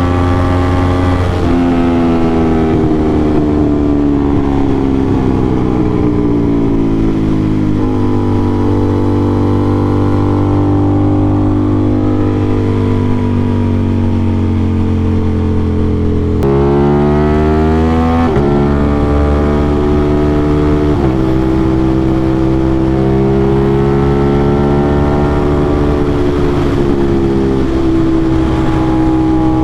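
Aprilia RS660's parallel-twin engine through an SC-Project CRT aftermarket exhaust, ridden hard: its pitch sags and swells as the throttle closes and opens. Several abrupt jumps in pitch come from gear changes.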